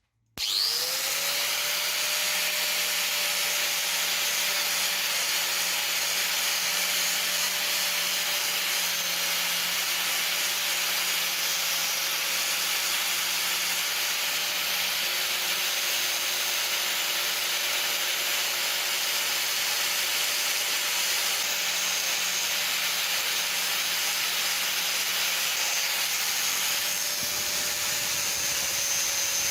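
An electric power tool switches on, its motor spinning up within a moment, then runs steadily with a rough abrasive noise, as in sanding or wire-brushing rust off metal parts.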